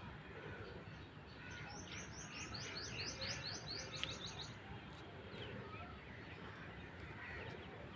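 A small songbird singing a fast run of falling high notes, about five a second, for about three seconds starting nearly two seconds in, faint over low outdoor background noise.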